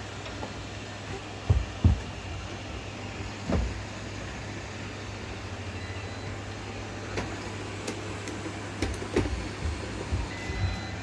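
Robot vacuum running with its brush roller left out, its motor and fan humming steadily. A few low thumps come in the first few seconds, and light clicks later.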